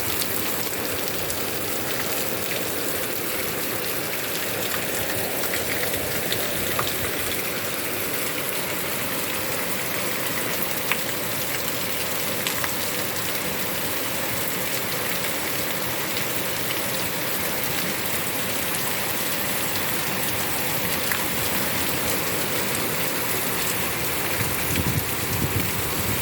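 Heavy rain falling steadily: a dense, even hiss of a downpour, with scattered drops tapping close by.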